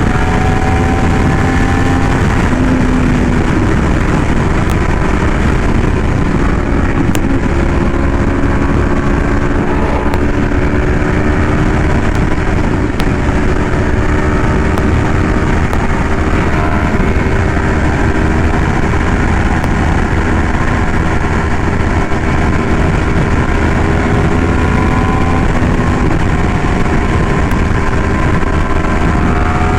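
Yamaha R1M's crossplane inline-four through an SC Project exhaust, running at a steady cruise with its pitch drifting slowly up and down, under heavy wind rush on the microphone.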